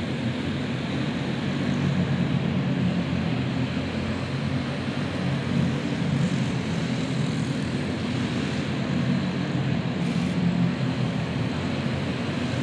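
A pack of dirt racing karts with single-cylinder four-stroke clone engines running together at racing speed, a steady, droning engine note that swells and eases slightly as the karts go around the track.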